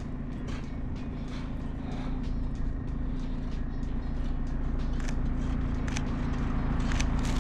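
Car driving on a winter road, heard from inside: a steady engine drone and tyre noise that slowly grows louder, with scattered light ticks.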